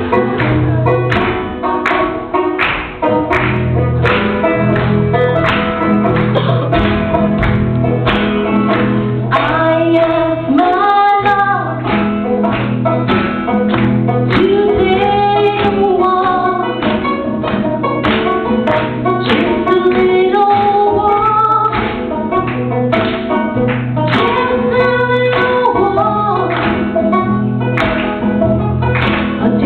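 Acoustic guitar strummed in a steady rhythm, with a voice singing a song from about nine seconds in.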